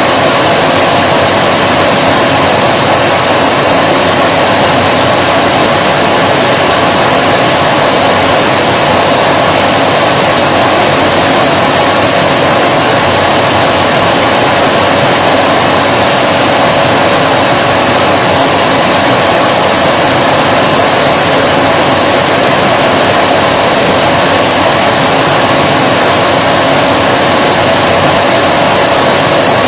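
Vacuum cleaner running continuously: a steady motor hum with rushing air, even and unbroken.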